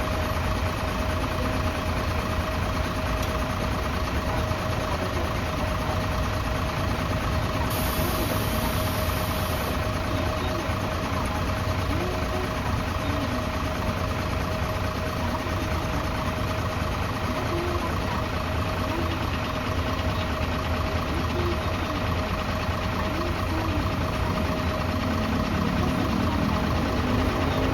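Diesel engine of a Tokyo city bus idling steadily, with a constant whine over the low rumble. A brief high hiss comes about eight seconds in.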